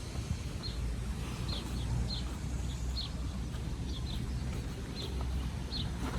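A small bird chirping repeatedly, short high chirps about every half second, over a steady low rumble.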